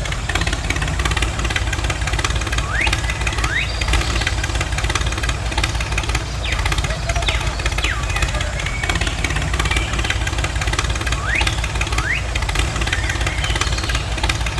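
A small engine, such as a miniature tractor's, running steadily with a low, fast putter. Birds chirp now and then with quick sweeping calls.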